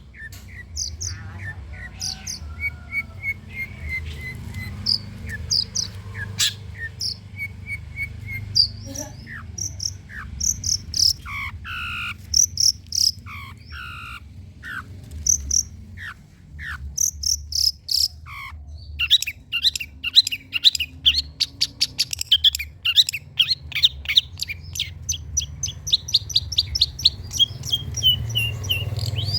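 Long-tailed shrike (cendet) singing a varied song of short chirps, whistled notes and downward-sweeping calls, breaking into fast, dense chattering runs in the second half, over a steady low hum.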